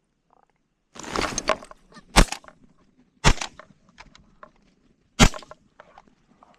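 Canada geese honking, then three shotgun blasts about a second and two seconds apart as a flock of geese is shot at.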